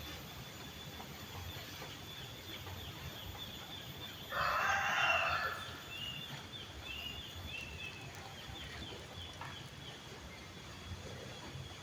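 A rooster crowing once, a call of about a second and a half a little over a third of the way in. A steady thin high tone runs underneath, with a string of small chirps just after the crow.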